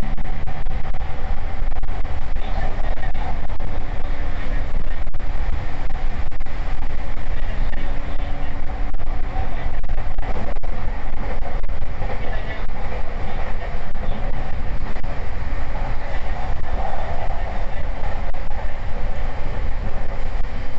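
JR East E231-series electric commuter train running, heard from inside the passenger car: a steady rumble of wheels on rail and running gear.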